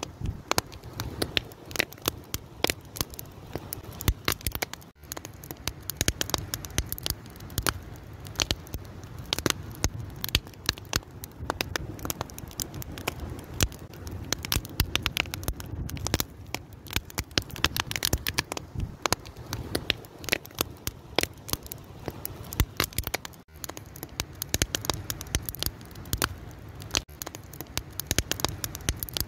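Open fire crackling, with many irregular sharp pops and snaps over a steady low hiss.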